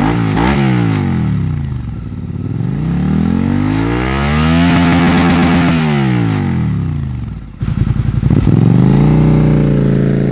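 2018 Suzuki SV650's 645cc V-twin engine revving through a Yoshimura carbon slip-on exhaust with the dB killer removed. A quick blip is followed by a slow rise to a held high rev that falls away again. Near the end the sound drops out abruptly and comes back as a steadier idle.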